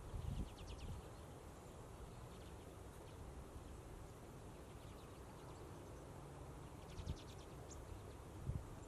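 Common redpolls calling, two short runs of rapid, dry chattering notes, one just after the start and another about seven seconds in, over a faint low rumble.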